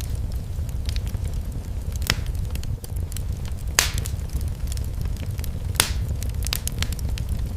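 Wood fire burning in a fireplace, crackling and popping over a steady low rumble of the flames. A few sharper pops stand out, about two, four and six seconds in.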